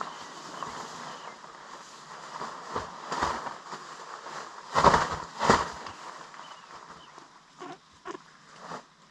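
Rustling and thuds from handling gear, two loud ones about five seconds in and a few softer knocks near the end, over a steady hiss that dies down late on.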